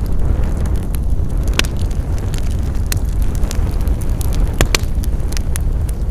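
Wood fire burning with a steady low rumble and scattered sharp crackles and pops, a couple of them louder, about a second and a half in and near the end.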